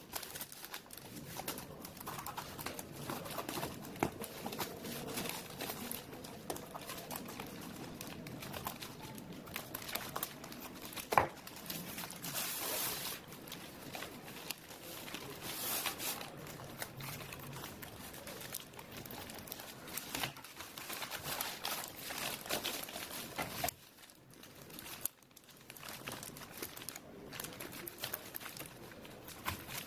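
Irregular rustling and crinkling handling noises with scattered clicks, and one sharp knock about eleven seconds in.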